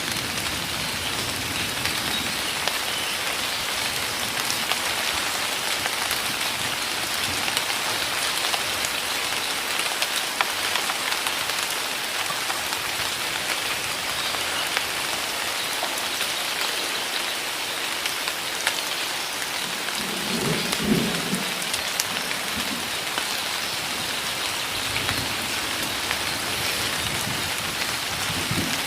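Heavy rain pouring steadily in a forest, a dense hiss of drops with many small individual drop ticks. A short low rumble comes about twenty seconds in.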